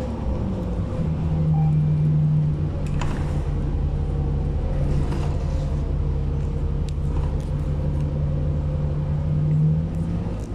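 City bus engine and drivetrain running under way, heard from inside the passenger cabin: a steady low rumble, with a hum tone that comes in about a second in and holds until near the end.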